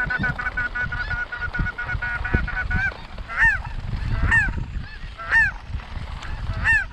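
Snow goose calls: a rapid run of short, high, overlapping honks for the first few seconds, then single high honks that rise and fall, about once a second.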